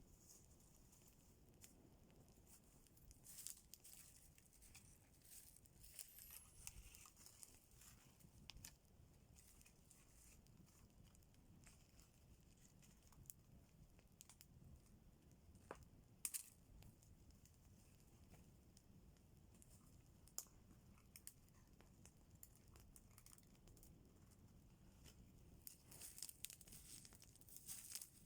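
Faint campfire crackling: irregular small pops and snaps of burning wood, with a sharper snap about sixteen seconds in and a denser run of crackles near the end.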